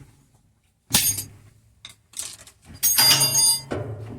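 A sharp knock about a second in, then a louder clatter with ringing tones, lasting nearly a second, a little before three seconds in.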